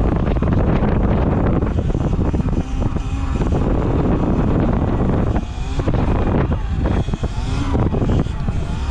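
Heavy wind noise buffeting the microphone while riding a Sur-Ron electric dirt bike, with the motor's whine rising and falling in pitch a few times in the second half.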